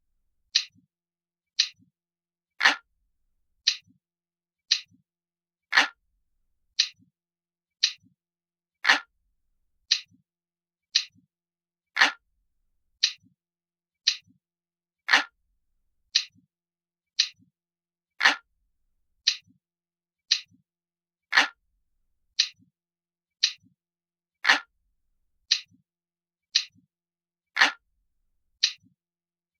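Analog clock ticking steadily about once a second, each tick a short sharp click, with every third tick a little louder.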